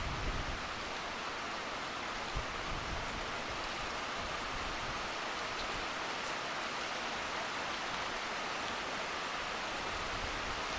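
Steady rain falling, an even hiss, with a short buffet of wind on the microphone at the very start.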